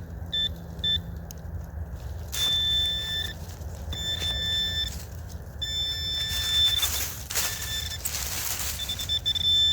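Metal detector giving its target tone: two short high beeps, then several longer steady beeps of about a second each as the coil sweeps back and forth. Brief rustles or crunches of movement through the woods come between the beeps.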